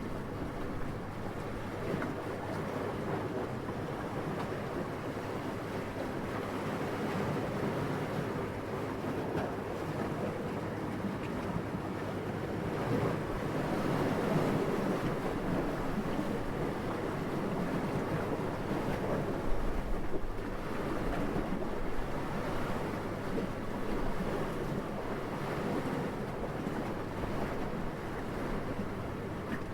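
Steady, gentle wind: a soft rushing that swells a little about halfway through.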